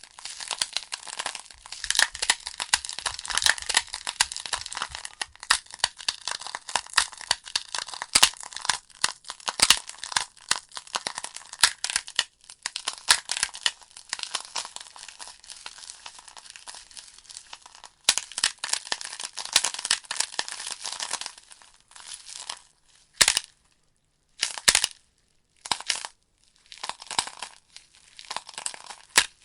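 Wood fire burning in a fireplace, the logs crackling and popping with many sharp snaps over a steady hiss. Near the end the crackle breaks up into short bursts with brief silences between them.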